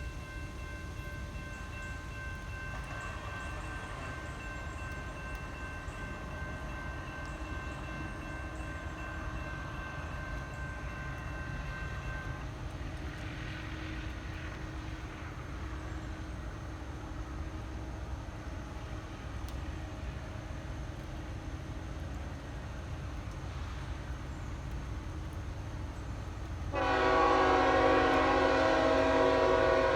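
Diesel freight locomotive air horn sounding a long steady chord for about twelve seconds at a distance, then, near the end, a much louder, closer horn blast as the train approaches, over a continuous low rumble.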